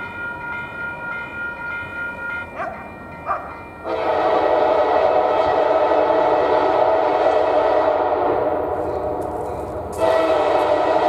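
Air horn of SD40-2 diesel locomotive 3024 sounding a long, loud blast from about four seconds in, easing off briefly and then blowing loudly again near the end.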